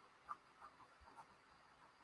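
Near silence: room tone with a few faint, short ticks in the first half.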